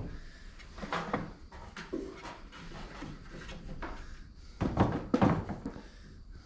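Wooden beehive frames knocking and clunking as they are set into a hive box, with a cluster of louder knocks about five seconds in.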